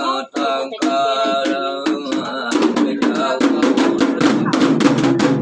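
A voice chanting in a wavering line, then traditional ritual percussion striking up about halfway through. Drums or other struck instruments beat fast and evenly, about five strikes a second, over a steady low hum.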